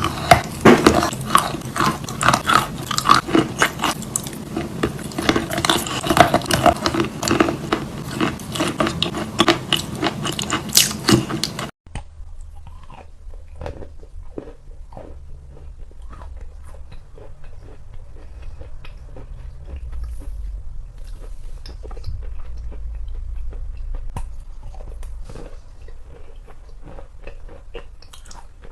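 Close-up crunching of a big bar of wet chalk being bitten and chewed: dense, loud crunches for about twelve seconds, then a sudden cut to quieter, scattered chewing clicks.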